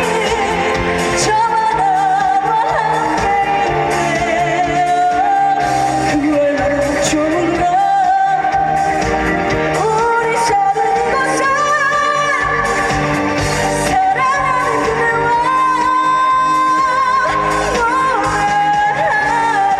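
A female singer singing a Korean trot song live over loud instrumental accompaniment, her held notes wavering with vibrato.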